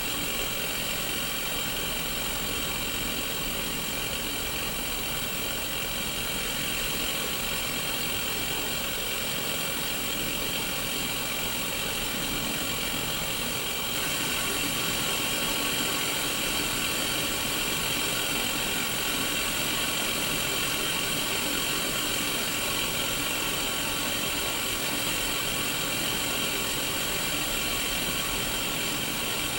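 Steady hiss of white-noise static from a Sony Mega Watchman black-and-white mini CRT television, growing a little louder about halfway through.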